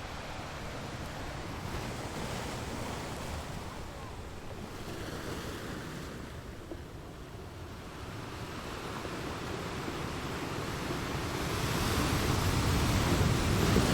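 Ocean waves breaking on a shore, a steady wash of surf that swells and recedes, building to a louder crashing wave near the end.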